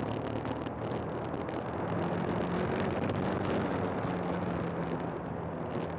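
KTM 390 Adventure's single-cylinder engine running at a steady cruise, mixed with wind noise and the rumble of tyres on a gravel track.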